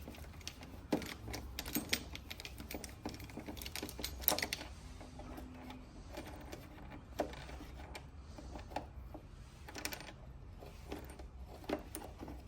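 Irregular small clicks and taps of removed car-trim fasteners being handled and set down, with the loudest click a little past four seconds in, over a low steady hum.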